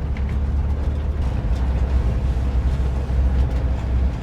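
1950s VW Bus driving, its air-cooled flat-four engine and running gear making a steady low rumble.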